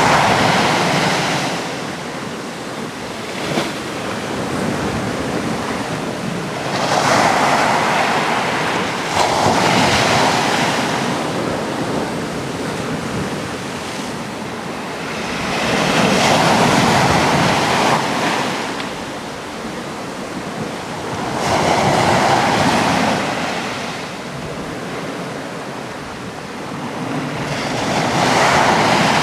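Sea waves breaking on a rocky Atlantic shore in a continuous wash of surf that swells with each breaker about every five to six seconds, five or so in all. Wind is on the microphone.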